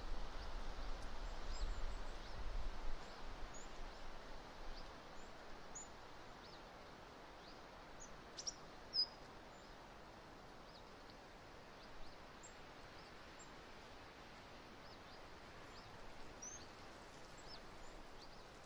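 Wind buffeting the microphone, strongest in the first few seconds and then easing to a soft steady hiss. Many short, high chirps from small birds are scattered throughout, the loudest about halfway through.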